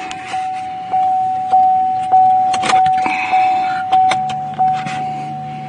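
A car's electronic warning chime dinging over and over, about one and a half dings a second, each ding fading before the next, in a 2013 Chevy Malibu with the key on but the engine not running. A low steady hum comes in about four seconds in.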